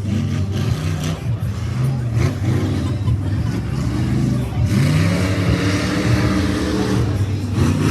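Rally truck engines revving, their pitch rising and falling over and over as the trucks are driven hard. A rougher hiss of noise joins about halfway through and stops shortly before the end.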